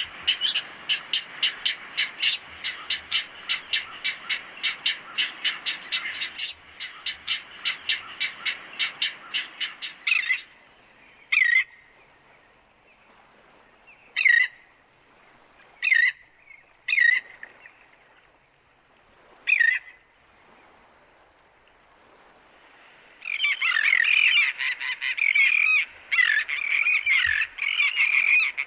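Birds calling. First comes a fast, even run of repeated notes, about three or four a second. Then a handful of separate, sharp down-slurred calls come a second or more apart, and dense chattering starts near the end.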